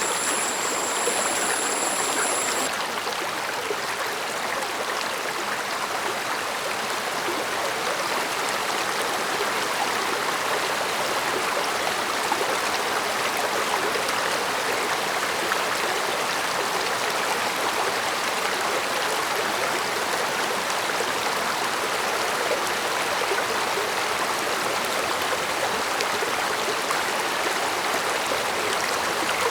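Stream water flowing steadily, a soft, even murmur. A high, thin, pulsing tone sounds over it and stops about three seconds in.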